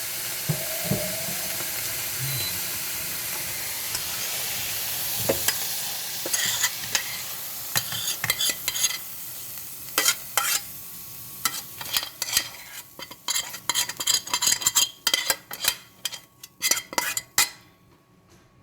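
Food sizzling in a hot pan, then a utensil scraping and clinking against the pan in many quick strokes as the food is scooped out into a bowl, the sizzle fading away.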